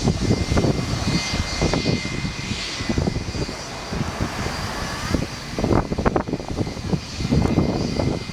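Boeing 737 jet engines on landing approach: a steady high turbine whine over a heavy, irregular low rumble.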